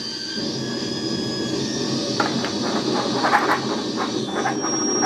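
Harsh noise: a shaken can fed through a chain of filter, fuzz and distortion pedals (Metal Zone and a death metal distortion among them), giving a dense, steady wall of distorted noise. Thin high whistling tones sit on top at first, and bursts of crackle come in from about two seconds in.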